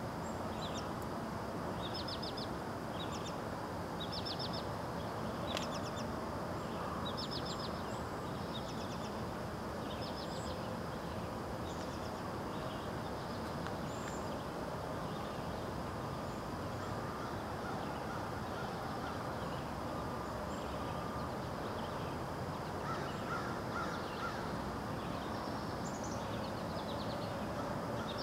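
Birds calling at dawn: short, high chirps in quick clusters of three or four, repeating every second or two, over a steady background rumble of outdoor noise.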